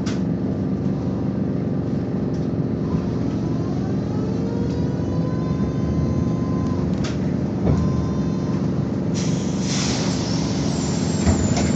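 BKM-221 trolleybus under way: steady running rumble with the electric traction drive's whine, which rises in pitch about four seconds in as it speeds up. About nine seconds in comes a burst of air hiss from the pneumatics.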